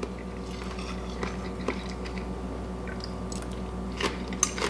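A person chewing a mouthful of fresh lumpia, a soft spring roll of lettuce and vegetable filling, over a steady low room hum, with a few faint clicks.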